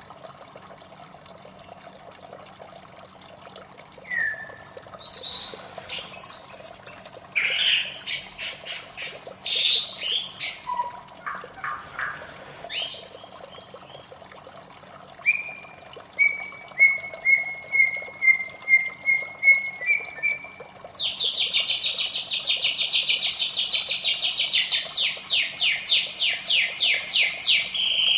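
White-rumped shama singing: scattered whistled phrases, then a row of short repeated notes drifting slightly down in pitch. About three-quarters of the way in, it breaks into a loud, fast run of repeated notes.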